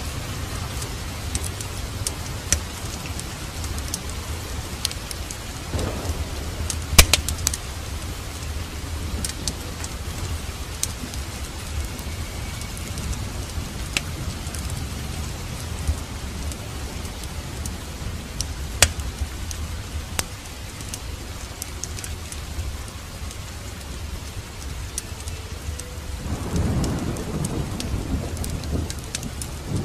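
Steady rain with scattered sharp crackles from a fireplace fire. A low rumble of thunder swells near the end.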